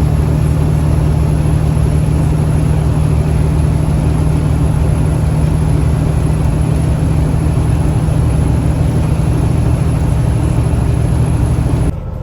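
Semi truck's diesel engine running steadily with a deep, even drone, with a thin high-pitched whine held above it.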